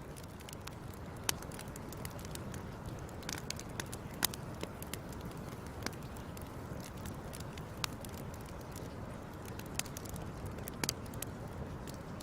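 Wood fire crackling: irregular sharp pops and snaps, a handful louder than the rest, over a steady low rumble.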